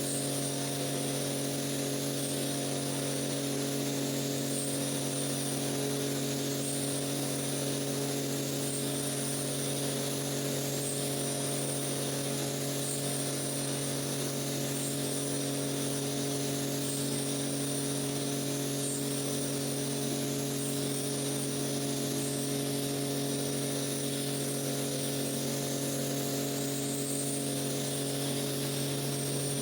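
Steady hum of an electric rug-cleaning machine's motor running without a break, with a high whine above it that shifts slightly every couple of seconds.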